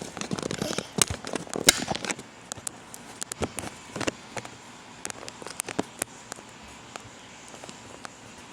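Scattered sharp clicks and crackles of objects being handled, dense for about the first two seconds and then sparse.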